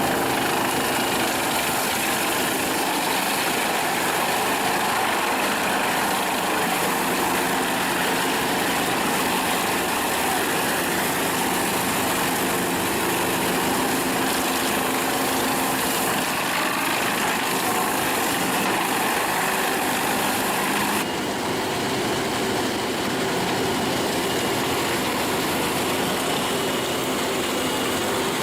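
An engine running steadily, with several steady tones over an even hiss; the sound changes abruptly about three quarters of the way through.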